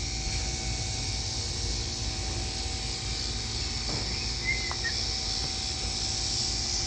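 Steady high-pitched chorus of insects, with a low rumble underneath and a short bird chirp about four and a half seconds in.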